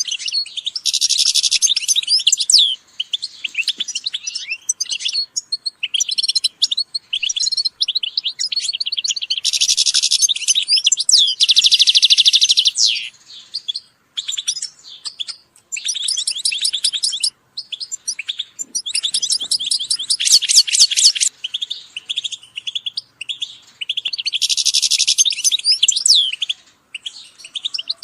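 European goldfinches singing and calling together: bursts of rapid, high twittering trills, each a second or few long, broken by short pauses.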